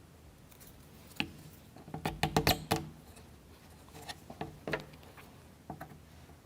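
Plywood model-kit parts and toothpicks clicking and knocking together as they are handled and fitted. There is a quick burst of several knocks about two seconds in, with single clicks before and after it.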